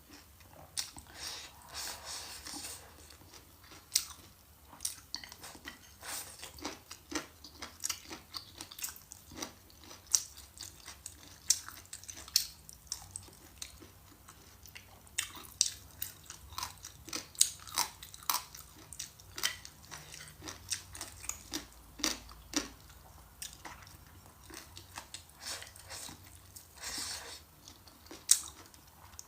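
Close-miked chewing and biting of food, with many short crisp clicks and crunches at an uneven pace.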